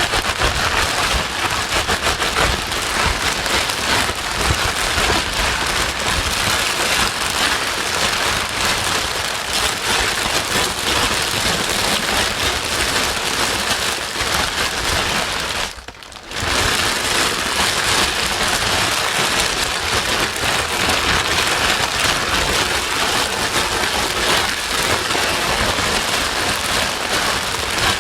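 Steady white noise with a rain-like hiss that covers the whole range from low rumble to high hiss. The level drops briefly a little past halfway, then comes straight back.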